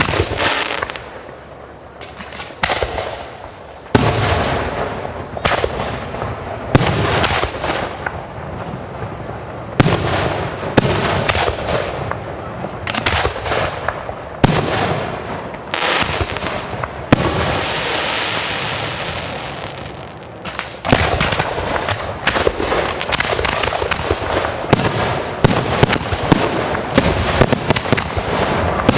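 Fireworks display: a steady series of booming shell bursts, each ringing out. After a spell of steady hissing crackle, the bursts come thick and fast over the last third.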